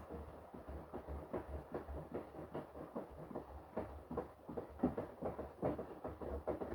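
Front-loading washing machine drum turning, the laundry tumbling in a quick, uneven run of soft knocks over a low motor hum.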